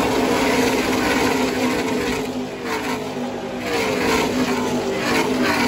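NASCAR race engines running at speed as the field passes, each engine's pitch falling as it goes by, one after another.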